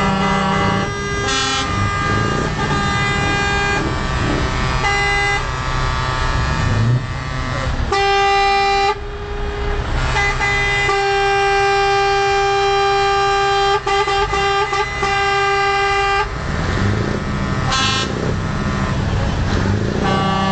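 Air horns on a Scania truck sounding a run of long blasts that jump between several pitches, with one note held for about six seconds past the middle, over a low engine rumble.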